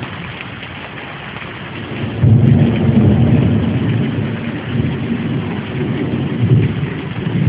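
Steady rain falling, then a long rumble of thunder that breaks in suddenly about two seconds in, loudest at its start, and keeps rolling with swells.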